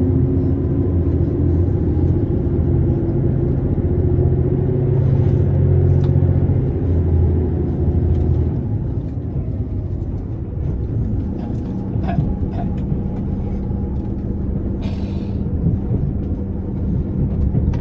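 JR Shikoku 2700 series diesel railcar pulling away, its diesel engines running hard with a rising whine; the heavy engine sound drops off about eight seconds in, leaving a steady lower hum.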